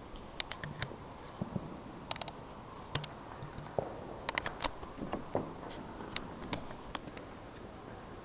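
Fireworks going off: scattered sharp pops and crackles at irregular intervals, some in quick clusters of three or four.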